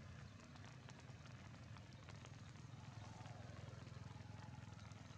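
Faint steady rain with many small drop ticks, over a low steady rumble.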